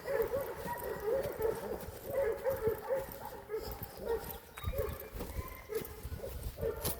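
A Ryman setter whining in a quick string of short, rising-and-falling cries, several a second, thinning out after about four seconds. The whining comes from excitement over birds it has found. Dull low thumps are heard near the end.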